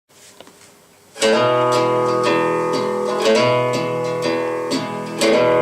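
Acoustic guitar instrumental intro. The strumming starts about a second in and keeps an even rhythm of about two strokes a second, the chords ringing between strokes.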